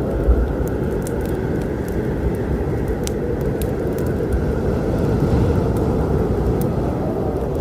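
Wood fire crackling, with irregular sharp pops and snaps over a steady low storm rumble.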